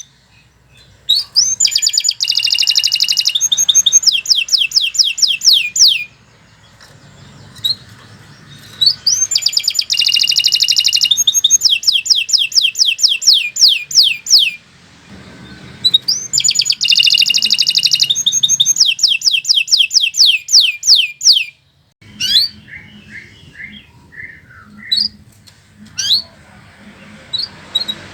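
Domestic canary singing in long loud phrases, three in all with short pauses between. Each phrase opens with a rapid buzzy trill and ends in a run of quick rising whistled notes, about six a second. Softer, scattered short chirps follow near the end.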